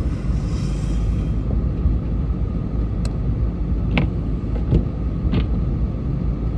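Steady low rumble of a car driving, with a few short sharp ticks or squeaks a few seconds in.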